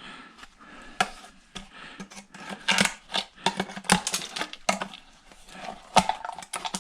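Small metal parts and wire from a dismantled microwave clicking and clattering as they are handled and pulled apart, with irregular sharp knocks, the loudest about a second in and again near the end.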